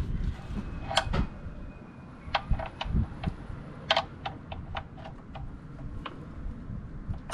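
Sharp metallic clicks in short quick runs, about five a second, from a hand ratchet being worked while the oil drain plug is tightened into the oil pan.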